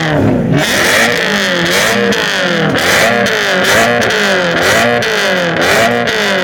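Car engine revved over and over, its pitch rising and falling about once a second, with a loud hiss over the top.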